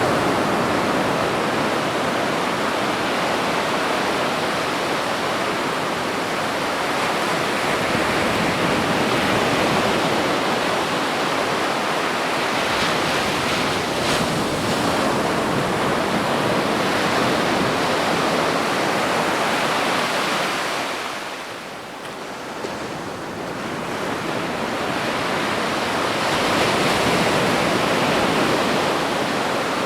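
Ocean surf washing onto a beach in a continuous loud rush. The roar eases off for a couple of seconds about two-thirds of the way in, then builds again as the next wave comes in.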